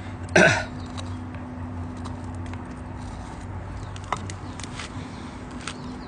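Light knife cuts and scrapes on wood, heard as scattered soft clicks while a wooden kuksa is whittled. About half a second in there is one short, loud sound that falls sharply in pitch.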